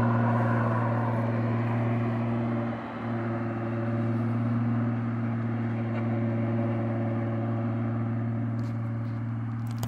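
Car engine running at steady revs, a constant hum that dips briefly about three seconds in and then holds steady. A few faint clicks sound near the end.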